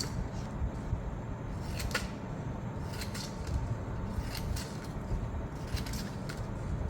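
Scissors snipping into a paper strip to cut fringes: several separate short snips, a second or so apart.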